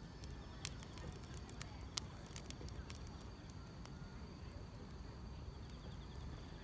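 Wood fire crackling: irregular sharp pops and snaps over a low steady rumble, with a faint steady trill of grass insects chirping.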